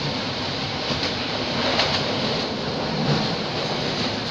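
Passenger train running along the track, heard from the open window of a carriage: a steady rush of wheel and wind noise with a few faint clicks of the wheels over the rails.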